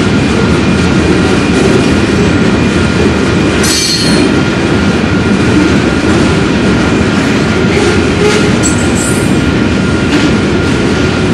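Railroad train rolling steadily on the rails, with faint steady high wheel-squeal tones and a brief high screech about four seconds in.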